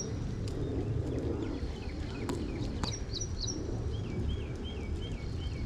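Birds chirping, with a run of five quick repeated notes near the end, over a steady low outdoor rumble; two faint knocks sound in the middle.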